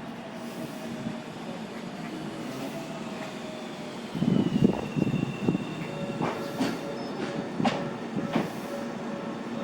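Tobu Tojo Line electric train at the platform, its motor whine falling slowly in pitch as it slows, over a steady rumble. From about six seconds in there are several sharp clicks and knocks.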